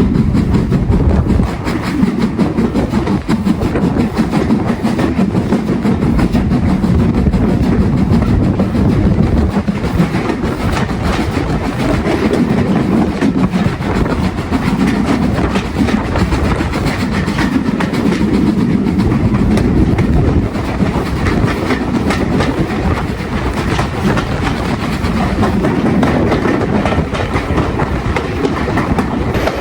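Train hauled by an LMS Stanier Class 8F steam locomotive running steadily along the line, heard from aboard: a continuous rumble of the wheels on the track with clickety-clack over the rail joints.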